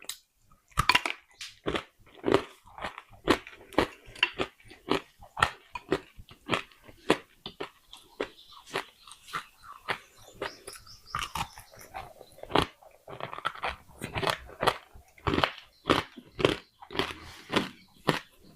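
Crunching of clay pot pieces being bitten and chewed close to the microphone: a steady run of sharp crunches, two or three a second.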